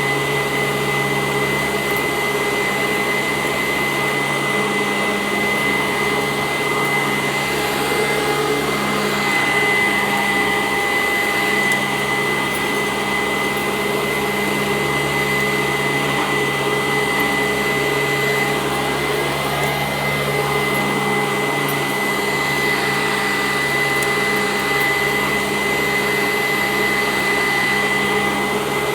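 Sanitaire SC886 upright vacuum cleaner running steadily on carpet, its motor giving a steady high whine over the rush of air.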